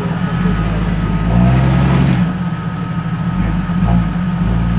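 Jeep Wrangler's engine working under load as it crawls over boulders, the revs swelling and easing off.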